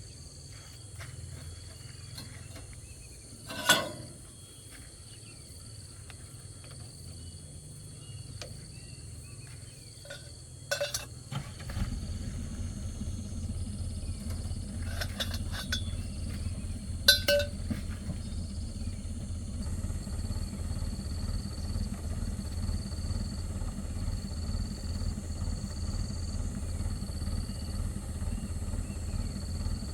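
Metal parts and tools clinking and knocking a few times, the loudest knock a few seconds in. About twelve seconds in, a low steady machine hum starts and keeps going, under a steady background of crickets chirping.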